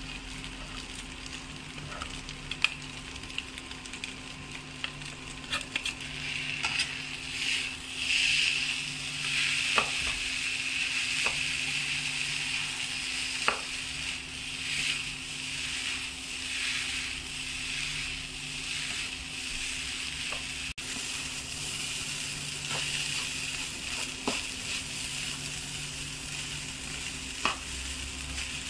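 Fried rice with carrots and long beans sizzling in a hot oiled non-stick pan as it is stir-fried, with the spatula scraping and tapping against the pan. The sizzle grows louder after about six seconds as the rice is tossed.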